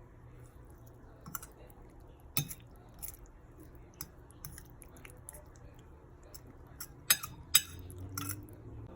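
A fork stirring a wet tuna, egg and spring onion mixture in a bowl: soft squelching with irregular clicks and taps of the fork against the bowl, a few of them louder.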